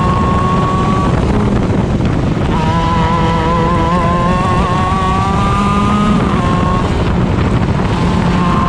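Onboard sound of a stock Honda 125cc two-stroke shifter kart engine at high revs. It holds steady, drops off about a second in, climbs again from about two and a half seconds to six seconds, breaks off briefly, and is back at steady high revs near the end.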